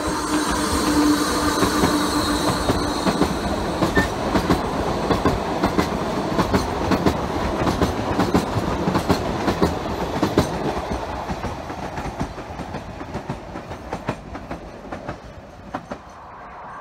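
Tren de Sóller electric narrow-gauge train, a motor car hauling wooden carriages, rolling past with its wheels clicking steadily over the rail joints. The sound fades over the last few seconds as the train draws away.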